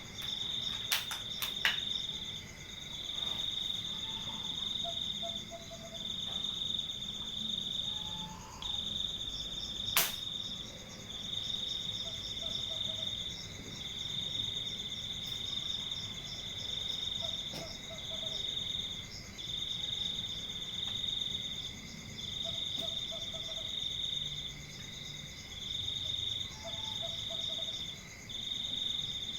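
Cricket trilling at night: a high, even trill in long bouts of a second or two, broken by short pauses, with a fainter steady trill beneath it. A few sharp clicks near the start and one about ten seconds in.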